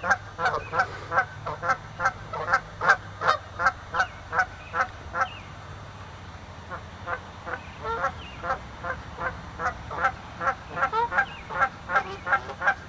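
Geese honking in quick repeated calls, about three a second, squabbling with each other; the honking eases off briefly about halfway through, then picks up again.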